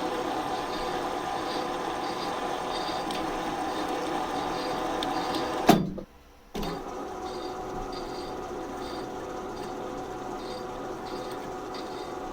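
A workshop machine running steadily, with a faint regular ticking about twice a second. About six seconds in there is a sharp click and a half-second break, after which the running carries on a little quieter.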